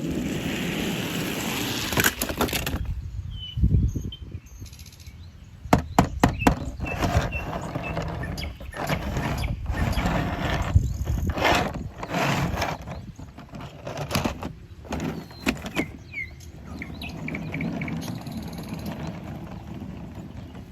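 Irregular knocks, clicks and clatter, like objects being handled, with a few short bird chirps.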